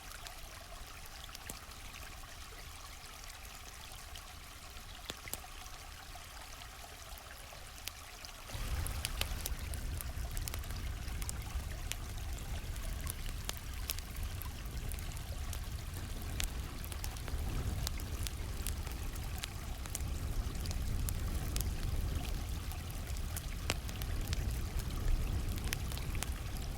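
Stream water flowing steadily, with sharp crackles and pops of a campfire scattered throughout. About eight seconds in the sound turns suddenly louder, with a deep low rumble added under the water.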